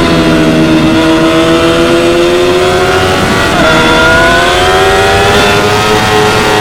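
2016 Yamaha R6's 599 cc inline-four at high revs under way, its pitch sagging then climbing slowly, with a short dip about three and a half seconds in before it climbs again and eases off near the end.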